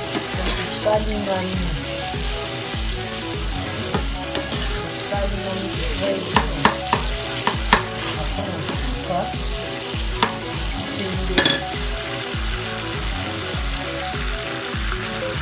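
Small fish (ndakala) sizzling steadily in hot oil with onions and peppers, stirred with a metal spatula. The spatula clicks and scrapes against the pan several times, in a cluster between about six and eight seconds in and again near ten and eleven seconds.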